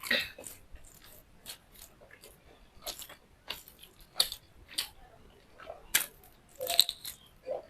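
Close-up chewing and biting: irregular crunchy clicks and mouth smacks of someone eating.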